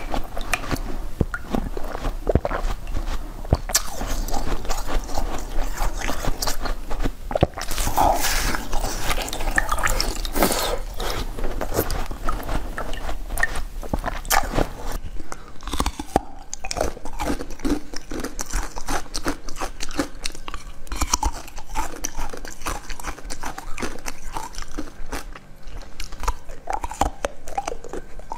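Close-miked eating of jelly: repeated bites and wet, crunchy chewing with lip smacks. A low hum under the first half stops about halfway through.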